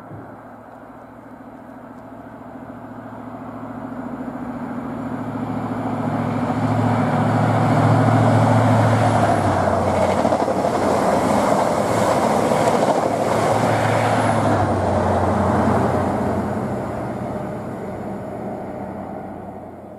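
An InterCity 125 High Speed Train with Class 43 diesel power cars passing at speed. The engines' drone grows louder as it approaches, wheels clatter on the rails as it goes by, and the sound then fades away.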